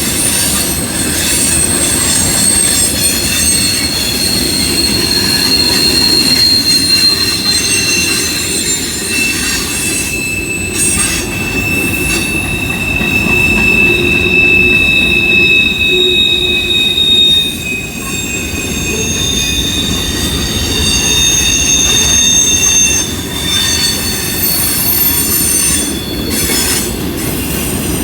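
Train cars rolling past with a continuous rumble of wheels on rail, overlaid by shrill steel wheel squeal: several high, held tones that shift from one pitch to another and come and go.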